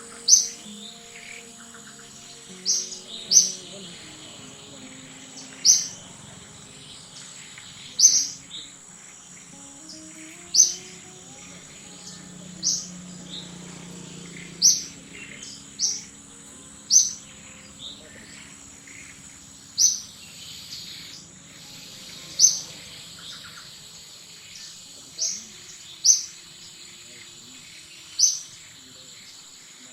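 A bird chirping repeatedly, one short sharp high call about every two to three seconds, over a steady high-pitched whine and faint background music.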